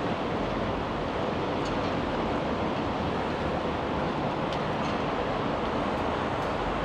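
Steady street ambience: an even wash of noise with no single clear source, and a few faint high ticks scattered through it.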